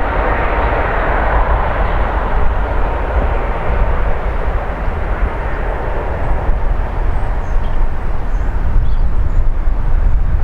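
Jet airliner engines at takeoff power on departure: a steady, loud rush over a deep rumble. The higher part of the noise eases off over the first few seconds as the aircraft draws away.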